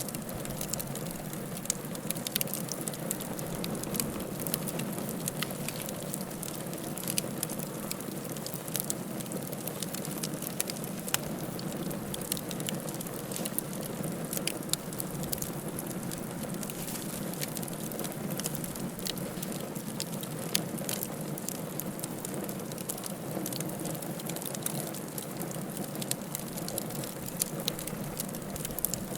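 Wood fire crackling in a fireplace: a steady low rush of flame with frequent sharp pops and snaps scattered throughout.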